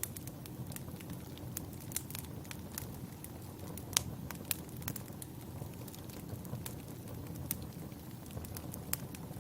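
Campfire of burning firewood: a steady low rumble with irregular sharp crackles and pops, the loudest about four seconds in.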